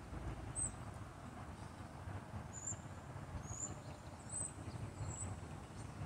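Steady low outdoor rumble with faint, very high, short bird chirps, five of them spread through.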